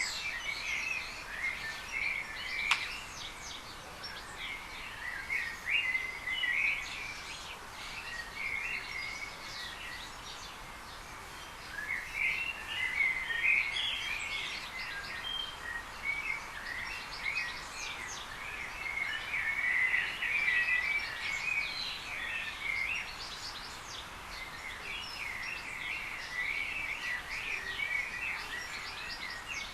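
Small birds chirping and twittering in quick, busy bouts with short pauses, over a faint steady background hiss. A single sharp click about three seconds in.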